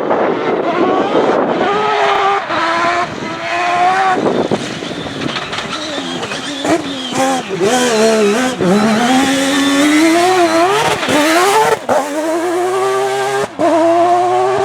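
Mazda rotary engine of a Proto 205 rally car at full race revs, its pitch climbing through the gears, dropping and swinging up and down as the car brakes and accelerates, with a few sharp cracks at gear changes near the end.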